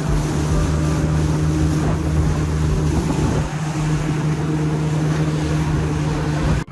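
A small fishing boat's motor running steadily under way, with wind on the microphone and water noise. The sound cuts off suddenly near the end.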